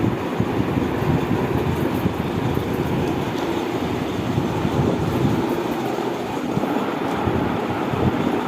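GFC electric fan running steadily: a continuous low whooshing hum with no change in speed.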